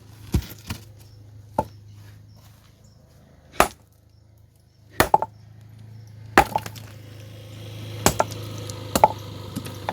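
Sharp, irregular clinks and knocks of hard objects striking stone, about nine of them, spaced unevenly. Under them runs a steady low hum that grows louder from about seven seconds in.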